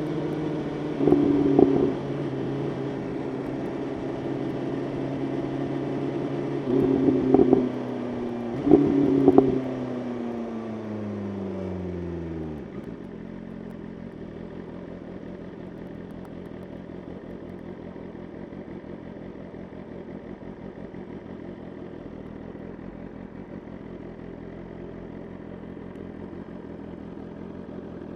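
BMW S1000RR inline-four engine running at steady revs, with three short loud bursts of throttle in the first ten seconds. The revs then fall away as the bike slows, and from about halfway the engine settles into a quieter, even idle.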